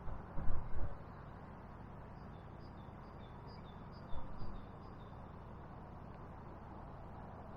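A small bird singing a quick run of high two-note phrases, the notes alternating between two pitches, over a steady background hiss. Two loud low thumps sound, one just after the start and another about four seconds in.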